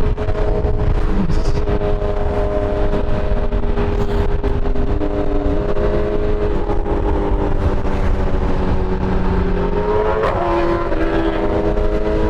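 BMW S1000RR inline-four engine running under way at a steady pitch that eases slowly down, then rises quickly about ten seconds in, over heavy wind rumble on the microphone.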